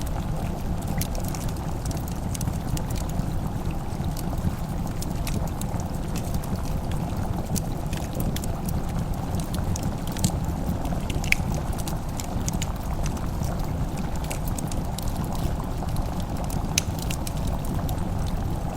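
Fireplace crackling: sharp, irregular pops and snaps over a steady low rumble.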